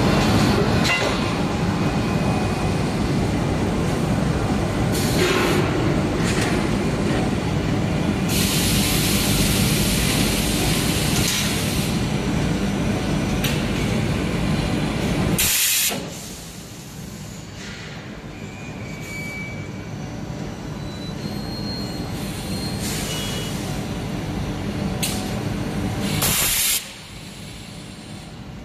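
Hot coil spring winding machine running with a dense, steady mechanical clatter and rumble. A long stretch of hissing comes about a third of the way in, and two short loud hisses come about halfway and near the end; the running noise drops after each of the short hisses.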